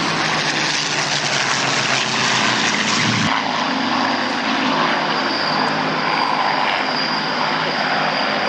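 Propeller-driven fighter aircraft engines running loud and steady, with an abrupt change in the sound about three seconds in, after which a thin high whine runs underneath.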